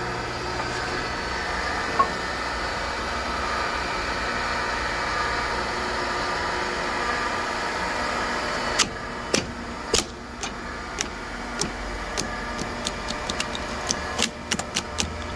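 Electric hydraulic pump of a log guillotine splitter running with a steady hum. From about nine seconds in, the log cracks and snaps again and again as the blade presses through it, with one loud crack about ten seconds in.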